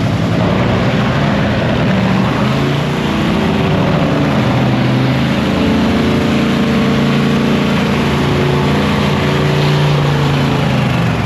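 A drag-racing dragster's engine running, its loud held engine note building in from about two to three seconds in and holding steady until near the end.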